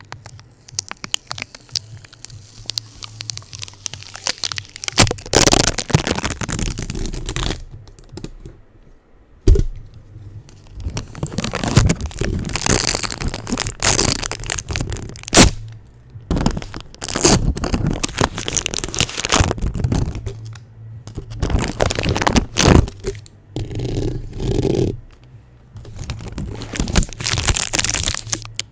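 Adhesive tape being pressed onto and peeled or torn off a microphone, in fast, irregular bursts of sticky crackling and ripping with short pauses between them.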